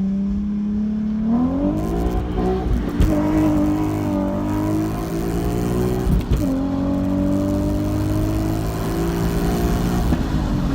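Nissan Z's V6 running through an ISR aftermarket exhaust with the stock Y-pipe, accelerating on the road: the pitch climbs, drops sharply about three seconds in and again about six seconds in as it shifts up, then climbs and settles into a steady cruise near the end.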